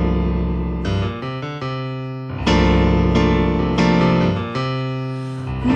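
Electric piano playing an instrumental passage of struck chords, each ringing and fading before the next, with a deep bass under the chords. A sustained vocal or lead note enters right at the end.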